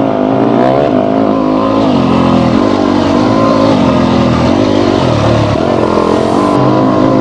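Yamaha YZ250F's four-stroke single-cylinder engine revving up and down repeatedly under throttle as the dirt bike is ridden around a tight track, heard from on the bike.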